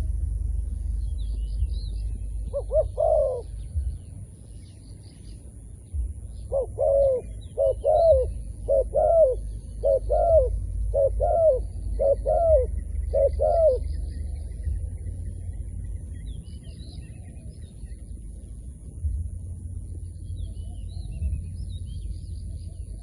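Zebra dove cooing: one short call, then a run of about eight cooing notes over some seven seconds. Small birds chirp faintly in the background over a low rumble.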